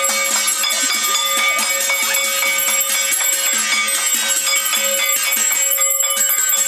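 Many bells ringing at once: a dense, continuous clatter of rapid strikes over sustained ringing tones at several pitches.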